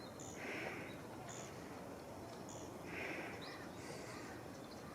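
Wild birds calling outdoors: short high chirps, and a harsher call about every two and a half seconds, over steady background noise.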